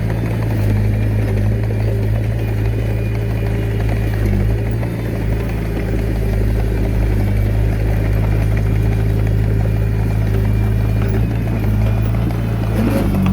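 Diesel engine of a mini bulldozer running steadily under work.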